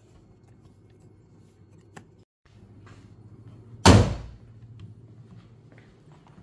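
A car body panel slammed shut once, a single loud bang with a short ringing tail about four seconds in, over a faint low steady hum.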